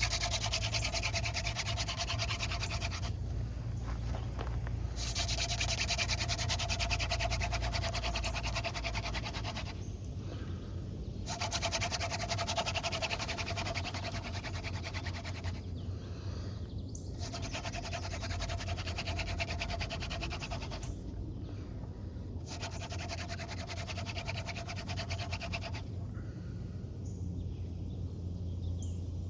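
Hand drill friction fire: a dried dogfennel spindle spun back and forth between the palms, rubbing hard in its notch on a tulip poplar fireboard to build hot dust toward an ember. The rapid rubbing comes in five bouts of several seconds each, broken by short pauses as the hands go back to the top of the spindle.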